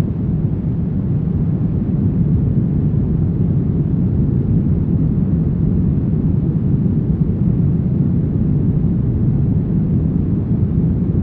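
Brown noise: a steady, unchanging deep hiss, strongest in the low range and fading off toward the highs.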